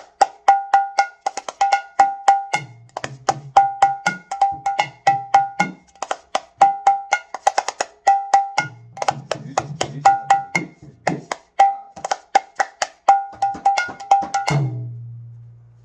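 Mridanga played in a fast rhythmic pattern: sharp, ringing strokes on the small treble head, the 'nak' or chutki stroke, mixed with groups of deep strokes on the large bass head. It ends on a bass stroke that rings on and fades out near the end.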